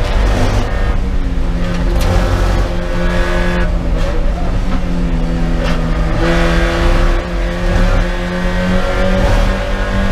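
Spec Miata's four-cylinder engine heard from inside the cockpit, its revs dropping as the car brakes hard for a corner, then climbing steadily as it accelerates out.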